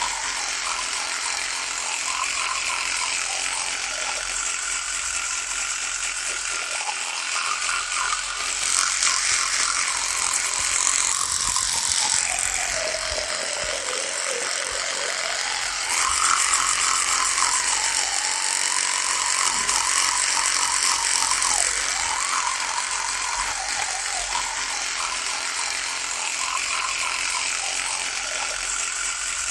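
Electric toothbrush buzzing continuously, its pitch wavering. About halfway through the pitch sags lower and climbs back, and the buzz is louder for a few seconds on either side of that dip.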